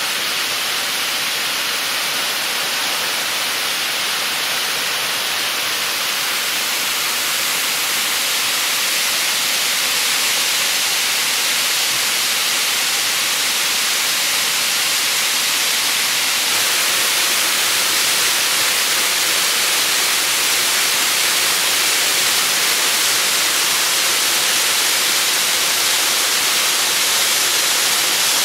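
Seseki Falls waterfall pouring, a loud, steady, unbroken rush of falling water.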